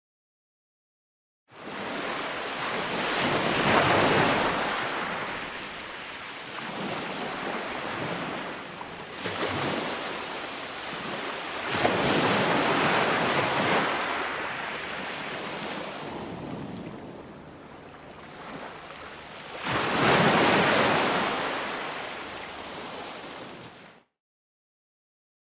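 Ocean surf: waves breaking and washing in, swelling loud three times about eight seconds apart. The sound cuts in after a second and a half of silence and cuts out again about a second before the end.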